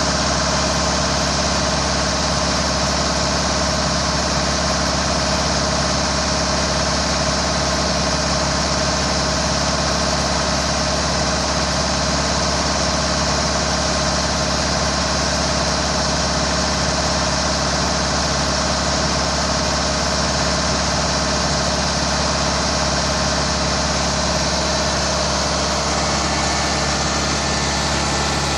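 Hydraulic winch and its engine-driven power unit running steadily with a constant mechanical drone while hauling up the antenna tower.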